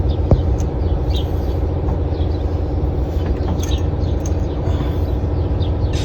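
A car engine running steadily, with many short, high chirps over it and one sharp click about a third of a second in.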